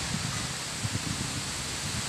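Steady hiss of rain falling on a grassy field and trees, with wind gusting on the microphone as an uneven low rumble.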